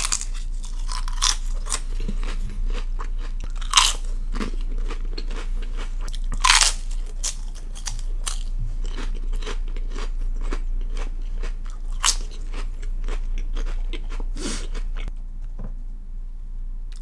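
Close-up crunching and chewing of a crisp piece of food, with a loud crunch at each bite, the first right at the start and others every few seconds, between steady crackly chewing. The crunching thins out near the end.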